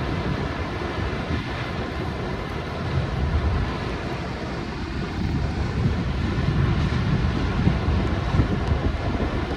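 Steady rush of floodwater, with wind buffeting the microphone in low rumbles.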